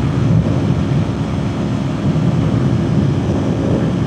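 Kawasaki Ninja 400's parallel-twin engine running steadily at highway speed, mixed with heavy wind rush on the rider's microphone.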